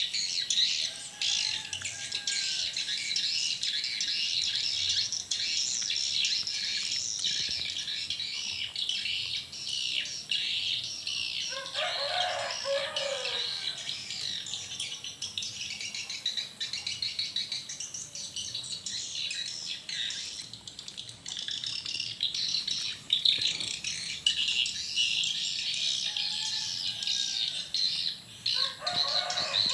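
Swiftlets twittering densely and continuously in high, rapid chirps. Twice, about twelve seconds in and again near the end, a lower chattering call of about a second stands out.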